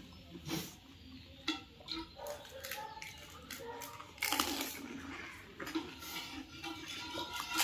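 Close-up eating sounds of panipuri: crisp puri shells crunching between the teeth, and the spiced pani slurped and chewed in wet, irregular bursts, loudest a little past the middle.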